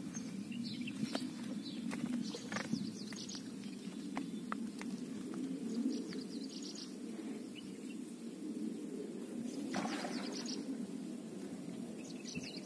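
Birds chirping in short runs of quick, high repeated notes, several times over, with a few faint clicks and a steady low background noise.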